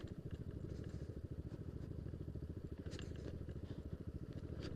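Yamaha Aerox scooter's single-cylinder engine running at low speed on a rough track, a quick low pulsing, with a couple of light clicks or knocks about three seconds in and near the end.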